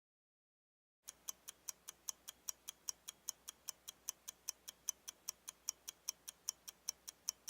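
Clock ticking, fast and even at about five ticks a second, starting about a second in.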